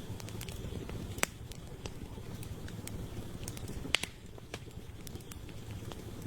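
Campfire of burning firewood crackling: a steady low rumble of the flames with scattered sharp pops and snaps, two louder pops about a second in and about four seconds in.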